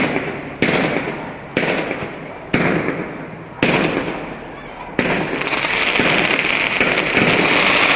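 Fireworks exploding overhead: six sharp bangs, roughly one a second, each ringing out and fading. From about five seconds in they give way to a continuous dense crackle.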